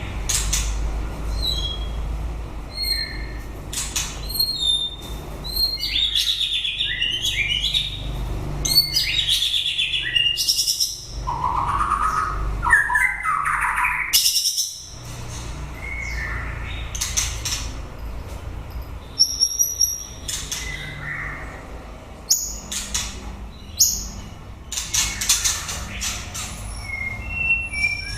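White-rumped shama singing a varied song of whistled phrases that slide up and down in pitch, mixed with sharp clicking notes.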